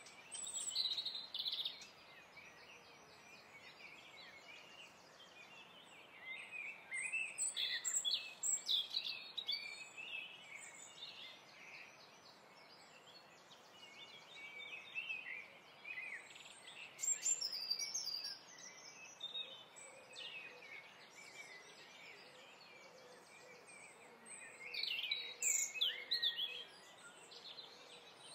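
Birds chirping and singing in short bursts every few seconds over a steady background hiss.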